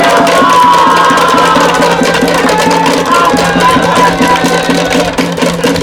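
Cheering music from the stands at a baseball game: a fast, steady drumbeat with a melody played or sung over it, against crowd noise.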